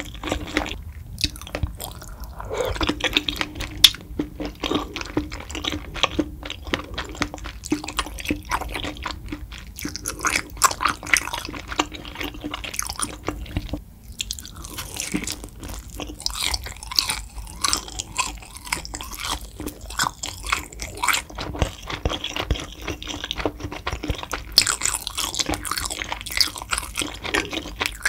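Close-miked chewing of tteokbokki and fried snacks: a steady run of short, sharp wet mouth clicks and squishes, easing off briefly about halfway through.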